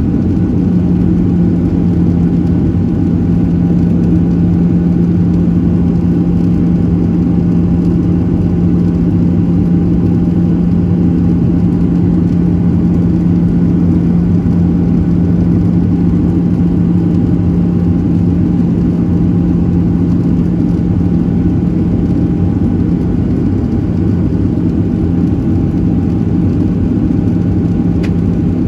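Steady engine and airflow drone of a Boeing 737-700 in flight, heard from inside the cabin, its CFM56-7B engines giving a constant low hum with fainter higher tones over a rush of noise.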